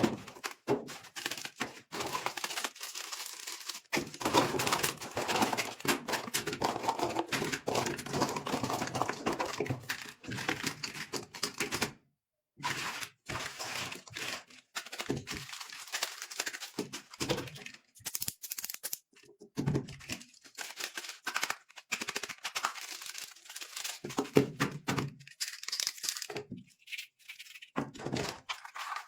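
Toy packaging being unboxed by hand: crinkling, tearing and irregular small knocks and clicks, with a brief silent gap about twelve seconds in.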